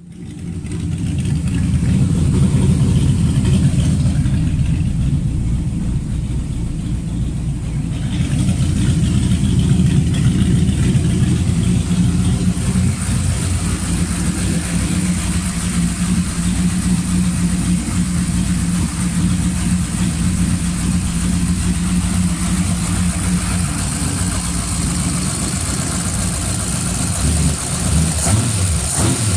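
Small-block Chevrolet V8 breathing through Speedmaster eight-stack individual throttle bodies with Holley HP EFI, running at a steady idle. Near the end the throttle is blipped a little by hand at the linkage.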